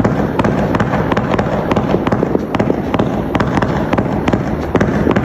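Fireworks display cake firing a dense barrage: rapid, irregular bangs several times a second over continuous crackling.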